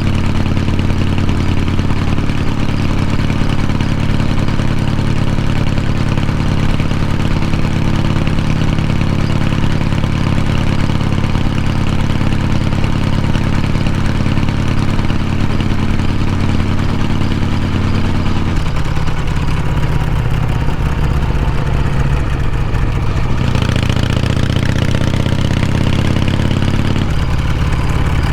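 Harley-Davidson Shovelhead V-twin motorcycle engine and exhaust under way, running steadily. The pitch changes about two-thirds of the way in, then climbs as the bike accelerates, and changes again near the end as it shifts gear.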